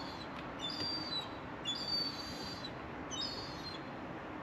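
A songbird calling about four times, each call a short high chirp ending in a briefly held whistle, over a steady faint hiss.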